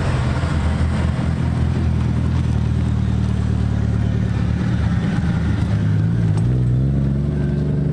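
Engines of modified cars running at low speed as they drive slowly past in a line. About six seconds in, one engine rises in pitch as it speeds up.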